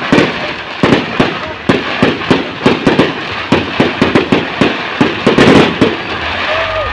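Fireworks going off in a rapid, uneven string of about twenty loud bangs, which stop about six seconds in.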